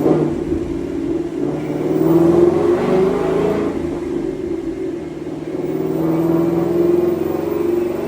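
2018 Mustang GT's 5.0-litre Coyote V8 running through catless headers, a resonator delete and a Corsa muffler. The exhaust note swells about two seconds in, eases off near the middle and builds again toward the end.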